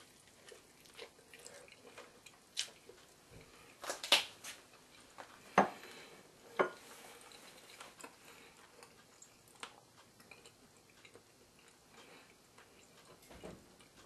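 A person chewing a bite of smoked, sauced chicken thigh, with a few short sharp clicks scattered through the chewing, the loudest about four seconds in.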